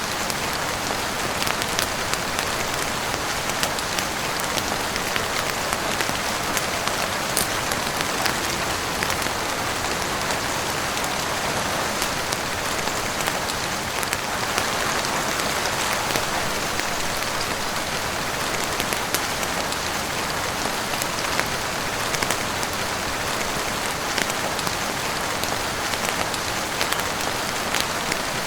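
Heavy rain falling steadily on a roof, an even hiss with many small sharp ticks and pops scattered throughout.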